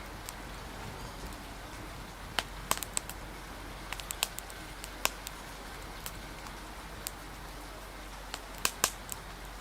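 Wood fire crackling, with scattered sharp pops in small irregular clusters, over a steady hiss of rain.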